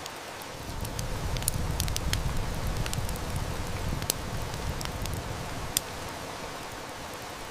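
Steady hiss of heavy rain with a wood fire crackling, its sharp snaps scattered through. A low rumble swells in about a second in and fades out about six seconds in.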